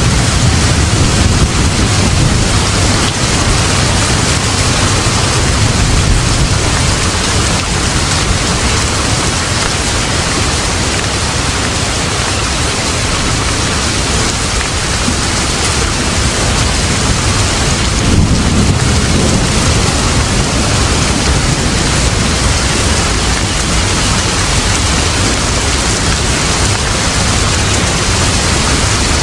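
Steady heavy rain, a dense even hiss with low thunder rumbles swelling near the start and again about 18 seconds in.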